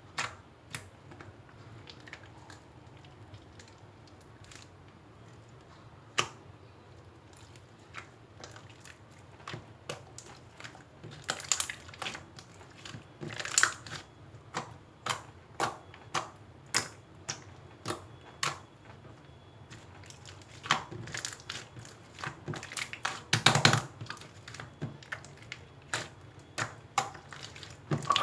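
Irregular sharp clicks and taps in a small room, with a few denser, louder clusters of crackling near the middle and about two thirds of the way in.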